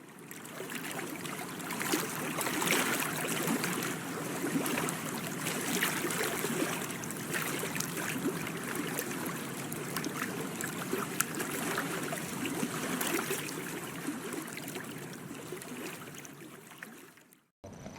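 Water splashing and trickling, a steady rush full of small crackles that fades out and stops near the end.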